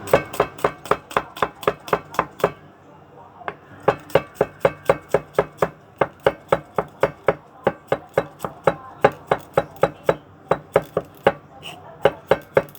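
Kitchen knife rapidly chopping garlic on a cutting board: fast, even strokes about five a second, pausing for about a second a couple of seconds in, then carrying on.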